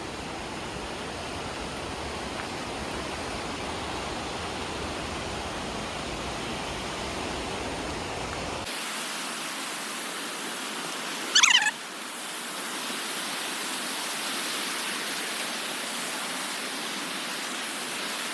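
Steady rush of the swollen Alsea River pouring over and below Alsea Falls in high winter flow. About nine seconds in, the low rumble drops away and the rush turns brighter and hissier. A little past halfway, a bird gives a brief high, falling trilled call.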